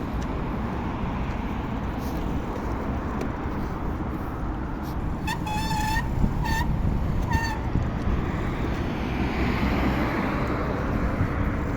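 Steady road traffic and wind noise heard from a moving bicycle, growing louder in the last few seconds as a vehicle comes by. About halfway, a high beeping tone sounds once long and then twice briefly.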